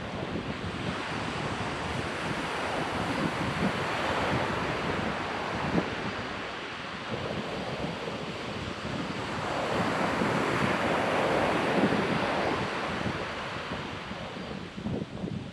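Ocean surf washing onto a sandy beach, swelling into louder breaks about four seconds in and again about ten seconds in, with wind buffeting the microphone.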